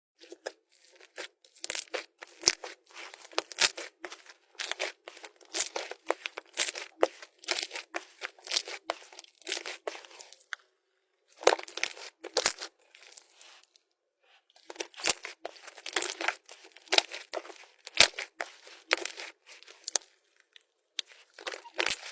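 Slime being squeezed and pressed by hand, giving quick sharp pops and crackles in dense clusters. There are short pauses about ten and fourteen seconds in.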